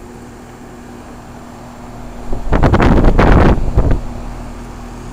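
Gibson central air-conditioner condensing unit running with a steady hum. A bit over two seconds in, wind buffets the microphone for about a second and a half, louder than the unit.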